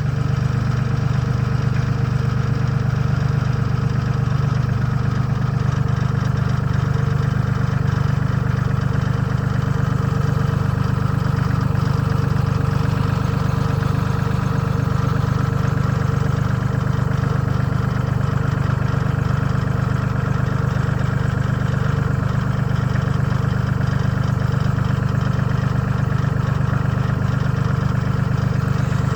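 Tractor engine running steadily at an even, low pitch.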